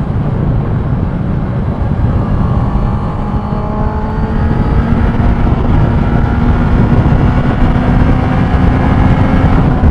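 Motorcycle engine running at steady cruising revs, its pitch creeping slowly up and easing off again near the end, over a dense low rumble of road and wind noise.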